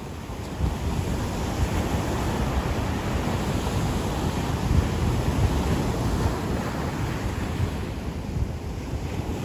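Ocean waves breaking and washing on a beach, a steady surf rush that swells about half a second in, with wind buffeting the microphone in a low rumble.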